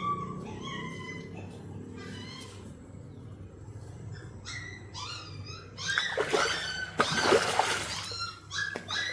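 A dog whining in repeated high, wavering whimpers, begging while fish are being caught. About six seconds in, a loud rough burst of noise lasts around two seconds.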